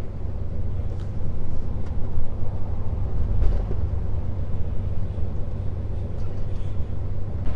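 Scania S500 truck heard from inside the cab while driving: a steady low engine and road rumble, with a few faint clicks.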